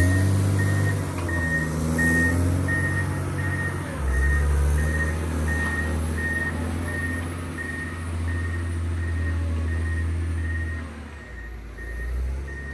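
Motor grader's diesel engine running under load, with its reversing alarm beeping steadily, about three beeps every two seconds. The engine eases briefly about eleven seconds in.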